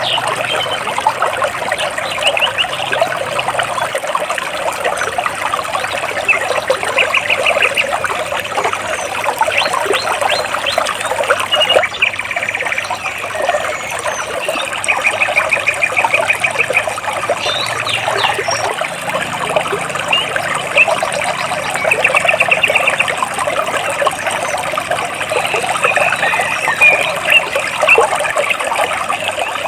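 Stream water trickling and babbling between rocks, with birds chirping in quick trills several times.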